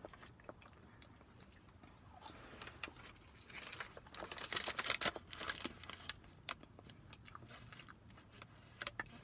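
Close-up chewing and the crinkle of a food wrapper being handled. The crackling is busiest from about two to six seconds in, with scattered small clicks before and after.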